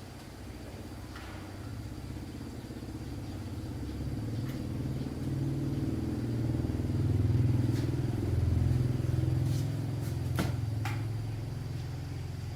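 An engine running with a low hum that swells to a peak about halfway through and then fades. A couple of sharp clicks come near the end.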